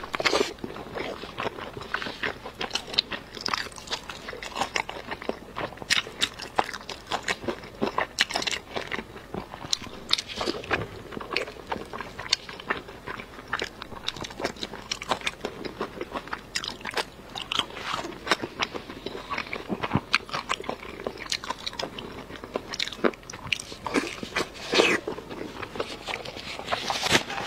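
Close-miked mukbang eating sounds: biting and chewing a strip of fatty braised meat with skin, a steady run of irregular quick clicks, crunches and wet mouth smacks.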